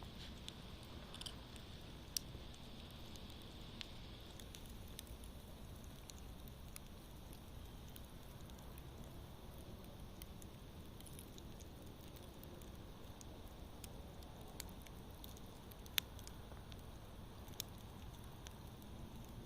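Campfire burning with a soft steady hiss and scattered sharp pops and crackles, the loudest about two seconds in and about sixteen seconds in.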